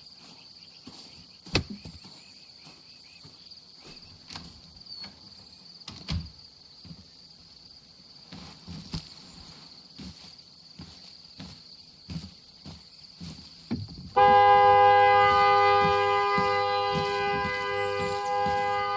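Quiet woodland ambience with a steady high drone of crickets and scattered small knocks and snaps. About fourteen seconds in, a car horn starts and is held down, one loud steady blare of two clashing tones that slowly weakens.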